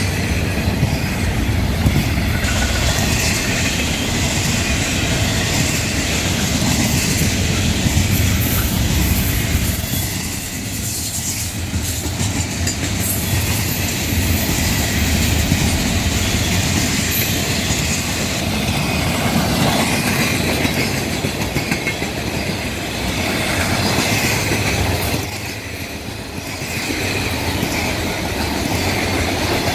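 Double-stack intermodal freight cars rolling steadily past close by, their steel wheels running on the rails with a continuous rattling rumble. The sound eases briefly near the end.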